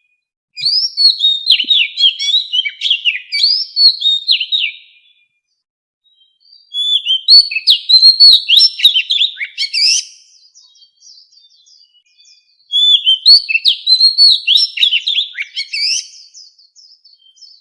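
Oriental magpie-robin singing: three phrases of rapid, varied whistled notes, each a few seconds long, with short pauses between them.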